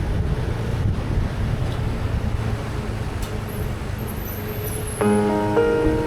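Motorcycle riding at a steady pace: a low, even engine drone with wind noise on the microphone. About five seconds in, background music with held, piano-like notes starts and gets louder.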